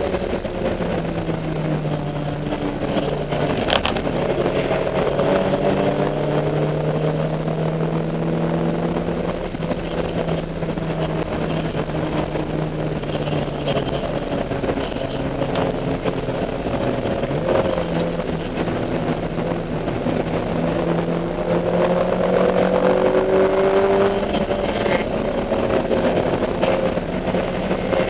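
Neon race car's four-cylinder engine heard from the onboard camera at race pace, its pitch rising and falling with throttle and gear changes. There is a sharp click about four seconds in.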